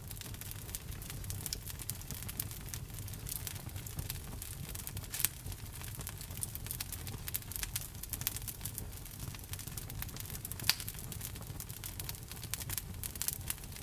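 Wood fire burning in a fireplace: logs crackling with many small pops over a steady low rumble, and two louder pops about five and eleven seconds in.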